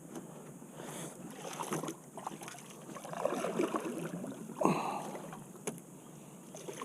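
Faint sounds of a kayak being handled at a creek bank: water moving around the hull, and light knocks and scrapes. There is one louder swish about four and a half seconds in.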